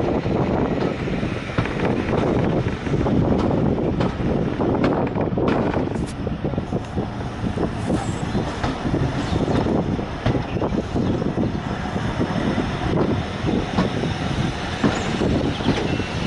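Railway train running on the rails with a steady rumble and repeated wheel knocks and clatter, heard from aboard the train.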